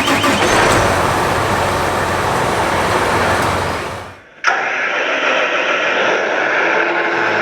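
Recorded clips of John Deere farm diesel engines. The first is a loud engine with a broad rushing noise that fades out about four seconds in. After an abrupt cut, a second engine runs steadily with a hum, which is taken for a John Deere S-Series combine.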